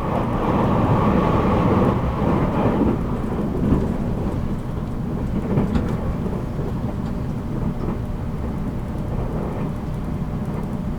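783 series electric train running at speed, heard from inside a motor car: a steady low rumble of wheels and motors on the track, swelling louder in the first couple of seconds and then settling back.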